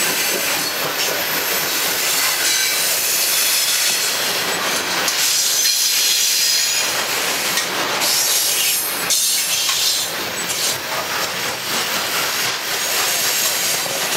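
Coal hopper cars of a freight train rolling past close by: steady noise of steel wheels on rail, strongest in the highs, with a faint high squeal around the middle and a few sharp clacks over rail joints in the second half.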